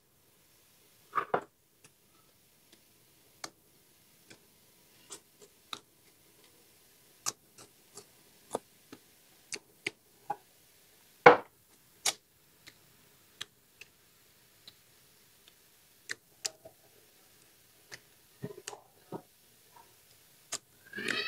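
Close-up eating sounds of fried pork ribs being chewed: irregular sharp clicks and crunches, about one or two a second, with a louder crunch about halfway through.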